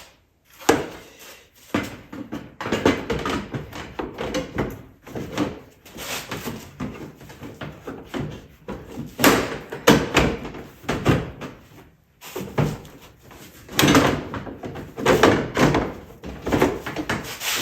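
Irregular knocks, clunks and rattles of hard parts being handled and fitted, one after another with brief pauses.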